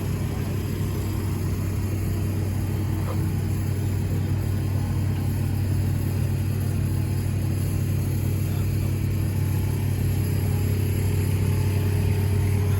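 A steady, low engine drone that holds one pitch without revving.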